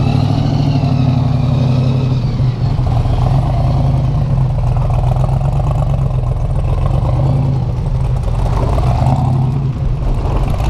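Car engine running steadily at low revs, a deep, even drone.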